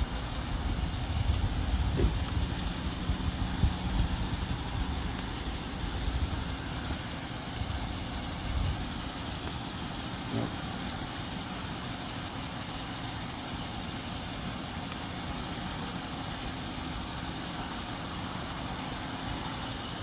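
A motor vehicle's engine running as a steady low rumble, louder and uneven with a few knocks in the first several seconds, then settling into an even hum.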